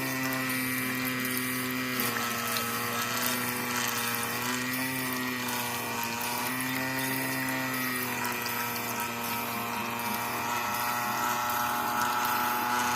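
Small DC motor of a homemade mini water pump running with a steady whine, its pitch dipping and rising slightly a few times.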